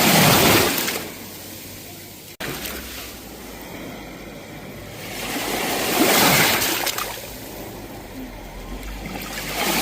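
Sea waves washing onto the shore, each one swelling and fading. They come about every four to five seconds: one just after the start, one about six seconds in and one near the end. There is a momentary dropout in the sound about two and a half seconds in.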